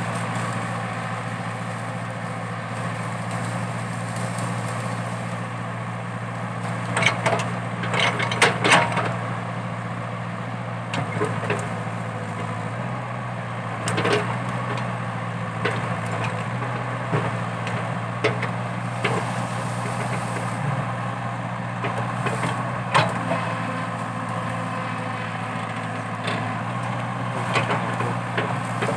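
Komatsu PC80 excavator's diesel engine running steadily under load, with wood cracking and splintering as eucalyptus stumps are torn out; the loudest cracks come in a cluster about seven to nine seconds in, with more scattered later.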